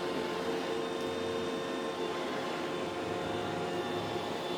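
iRobot Roomba e5 robot vacuum running: a steady motor whir with several steady tones held through.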